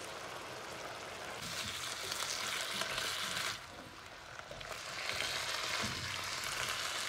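Diced chicken, potatoes and carrots sizzling in oil in a nonstick frying pan while a spatula stirs them. The sizzle gets louder about a second and a half in, dips for about a second midway, then comes back.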